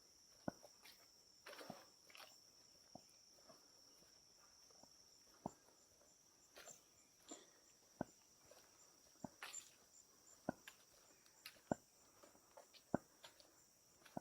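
Footsteps walking along a rainforest trail, about one step every second and a quarter, over a steady high-pitched insect drone. A faster pulsing insect call joins about five seconds in and fades out around twelve seconds.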